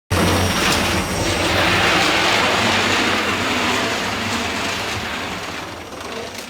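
Airliner cabin noise: a loud, steady rushing roar over a low engine hum, easing off gradually over the last few seconds, as on a landing rollout.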